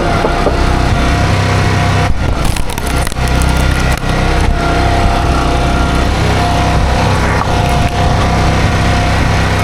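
Small gasoline engine of a log splitter running steadily under load, with a whine that comes and goes as the hydraulics work. The sound breaks off briefly about two and three seconds in.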